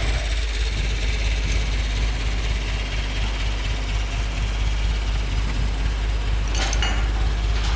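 Loud, steady workshop machinery noise with a constant deep hum under a wide hiss.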